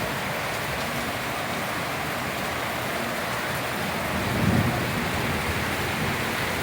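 Steady rain falling, an even hiss with no pauses. A brief low rumble swells about four and a half seconds in.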